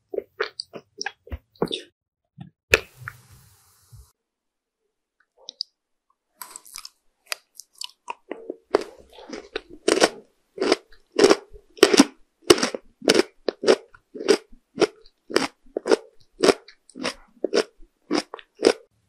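Close-miked chewing of crunchy food with the lips closed. Quick small crunches come first, then a sharp crack about three seconds in and a brief pause. In the second half the chewing settles into a steady rhythm of about two crunches a second.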